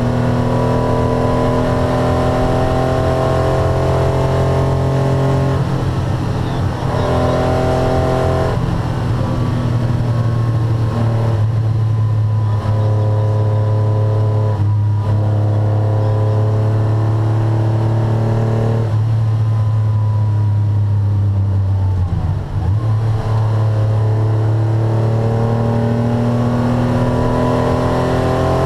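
1981 Porsche 911 SC's air-cooled 3.0-litre flat-six engine heard from inside the cabin, running hard under load. Its pitch climbs and breaks at several gear changes, with a short lift about three-quarters of the way through.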